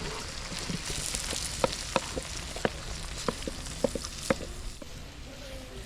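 Food frying in a pot: a steady sizzle, with a run of sharp taps from the stirring utensil against the pot in the middle seconds.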